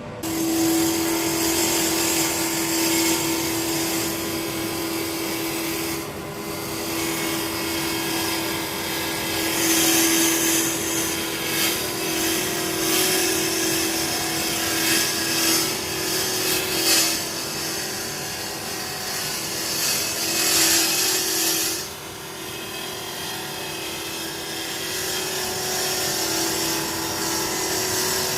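Wood lathe spinning a burr elm blank while a bowl gouge cuts it: a steady hum under a scraping, hissing cut that swells and fades with each pass and drops back about three-quarters of the way through. Dust extractor drone underneath.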